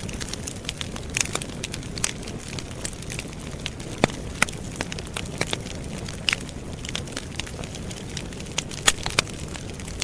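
Wood campfire burning, with a steady low rush of flame under irregular sharp crackles and pops. A few louder snaps stand out, one about four seconds in and a couple near the end.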